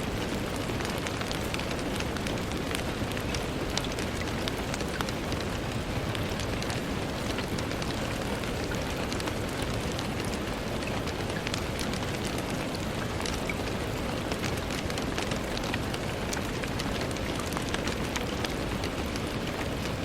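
Steady rain pattering on window glass: an even hiss with many small, scattered drop ticks.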